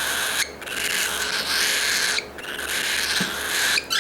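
Cockatiel hissing: three long, breathy hisses, each about one and a half seconds, with short breaks between them. This is the defensive warning hiss of an agitated cockatiel.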